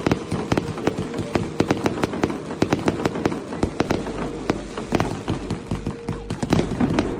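Fireworks going off with a dense, irregular crackle of sharp pops, several a second.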